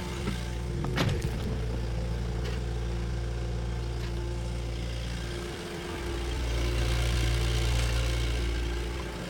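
Bulldozer's diesel engine running steadily, with a sharp metallic clank about a second in; the engine sound dips a little past halfway, then swells louder again.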